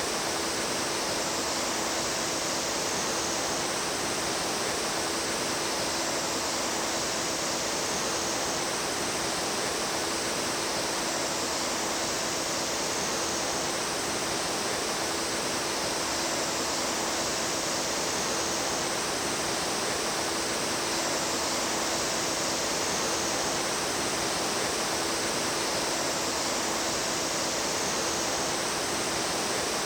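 Mountain stream water rushing and babbling over rocks, a steady, even rush.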